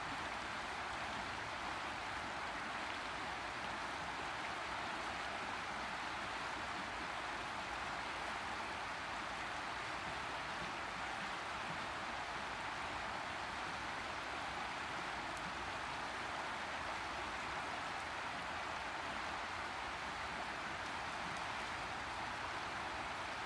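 River water rushing and splashing steadily, an even hiss with no let-up.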